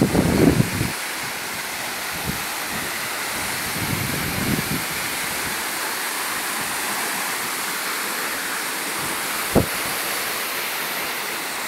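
Waterfall rushing steadily, a constant full roar of falling water. A few low thumps come in the first second and again around four seconds in, with one sharp knock about three-quarters of the way through.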